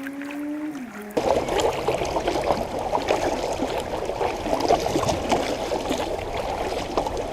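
River water splashing and gurgling around a kayak, starting abruptly about a second in and continuing as a dense wash with scattered small splashes. Before it, a faint hum slowly rises and then drops in pitch.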